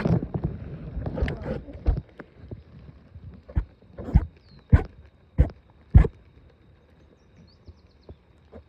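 A burst of bumping and rustling, then five sharp knocks evenly spaced a little over half a second apart, after which it goes quiet.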